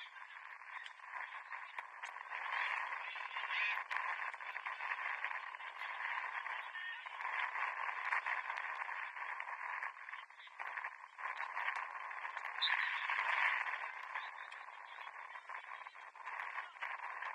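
Thin, tinny ambience of a seven-a-side football match on the pitch: a rising and falling wash of distant calls and game noise with short sharp knocks through it, all with the low end cut off, like sound through a radio.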